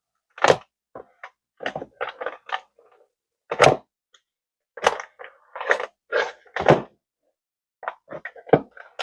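Irregular knocks and clatters of kitchen items being handled, with cupboard sounds, as the sugar is fetched down from a cupboard.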